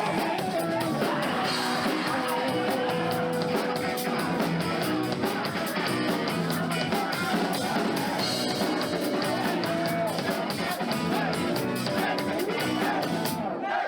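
Live rock band playing a song's instrumental intro: electric guitar, bass, keyboards and a drum kit with steady cymbal strokes. The band stops briefly near the end, just before the vocals come in.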